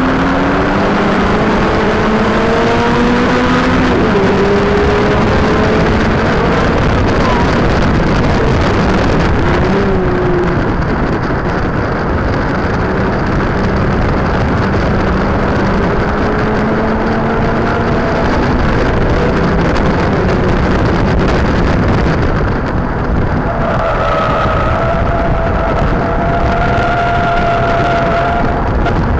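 Car engine run hard at speed, its pitch climbing and dropping back again and again as the driver accelerates, shifts and lifts, under a heavy wash of road and wind noise on a cheap keychain camera's microphone.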